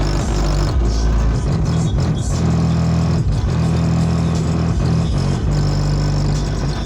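Car stereo played loud, a 900-watt amplifier driving the subwoofers with deep held bass notes that change pitch every second or so.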